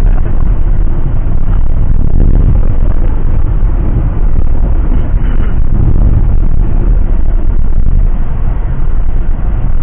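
Steady, loud low rumble of a vehicle on the move.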